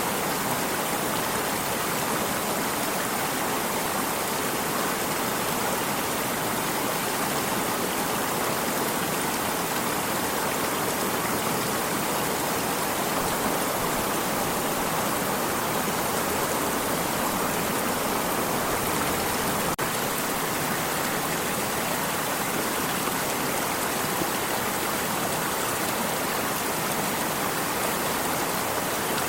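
Stream of water running steadily, an even, unbroken rush with no change in level.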